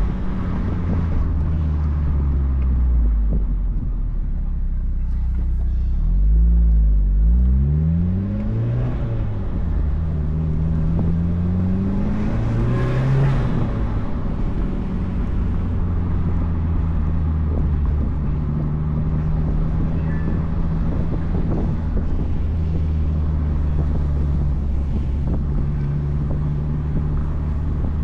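The 2004 Mazdaspeed Miata's turbocharged four-cylinder engine and aftermarket cat-back exhaust pulling through the gears, its pitch climbing in several quick sweeps. It comes off the throttle with a short hiss about halfway through, typical of the blow-off valve venting, then settles to a steady cruise. Wind rushes through the open-top cockpit.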